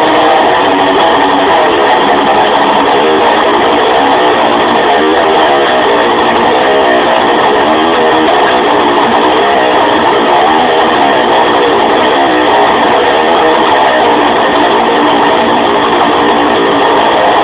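Electric guitar playing continuously and loudly, with sustained, wavering notes.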